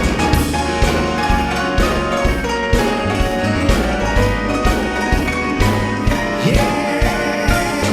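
Instrumental break of an upbeat band song: drums keeping a steady beat under horns or keys, with no singing.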